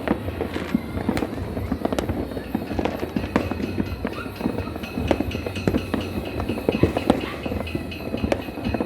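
Fireworks and firecrackers going off without pause: a dense, uneven barrage of pops and bangs, some sharper and louder than the rest.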